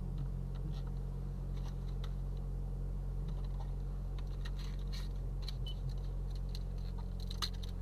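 Steady low rumble of a car's cabin while driving, with faint scattered ticks over it.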